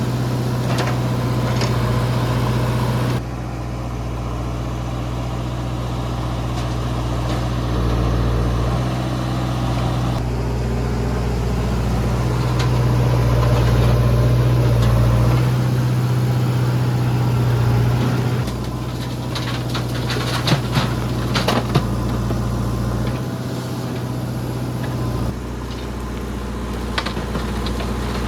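Diesel engine of a JCB 3DX backhoe loader running steadily at a low, even hum. In the second half there are sharp clanks and knocks, typical of the bucket and linkage working the mud. The level shifts abruptly several times.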